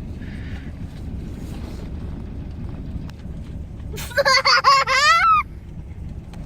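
Steady low rumble of a car running, heard from inside the cabin, with a child's high-pitched squealing voice about four seconds in for a second and a half, dropping in pitch at the end.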